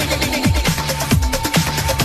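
Techno track with a steady four-on-the-floor kick drum, about two kicks a second, hi-hats ticking above it and a held high synth tone.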